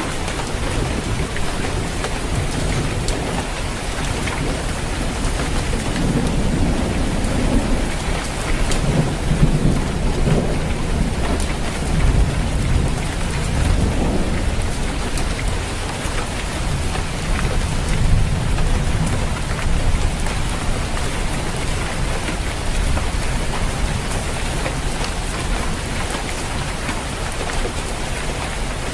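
Steady heavy rain falling on a roof, with low rolling thunder swelling and fading in the middle.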